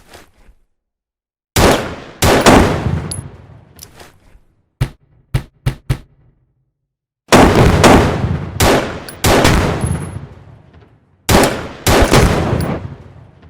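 Gunshots: several groups of loud shots with long echoing tails, and a few short, sharp single shots about midway.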